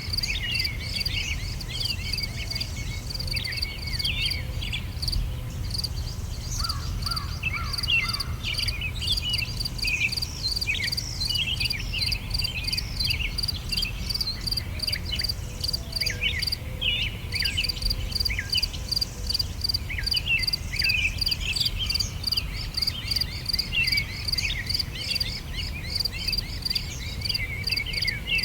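Summer outdoor ambience: insects chirping in a steady rapid pulse, over which several songbirds sing short, quick chirps and trills. The insect pulsing stops briefly about six seconds in and again past the middle. A steady low rumble runs underneath.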